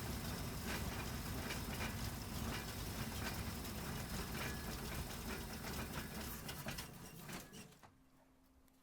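LiAZ-677 bus's V8 petrol engine running, with glass bottles clinking and rattling in quick irregular clicks. The sound dies down about seven and a half seconds in.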